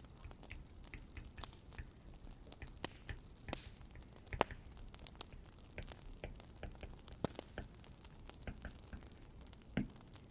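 Wood fire crackling: a faint steady hiss with irregular sharp pops and snaps, two louder pops about four seconds in and near the end.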